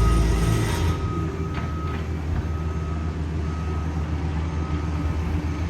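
Heavy road-paving equipment's diesel engine running steadily, with a reversing alarm giving repeated beeps at one pitch. A louder low rumble drops away about a second in.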